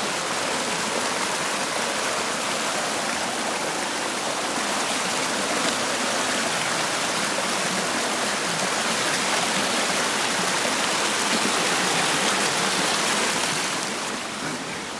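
Rain-swollen brook rushing steadily over small falls, running high enough to overflow onto the trail; it eases slightly near the end.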